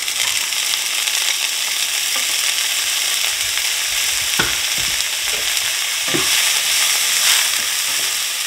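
Diced smoked sausage and frozen seasoning blend sizzling steadily in hot oil in a skillet, with a few short knocks and scrapes as a slotted spatula stirs them, the sharpest about halfway through.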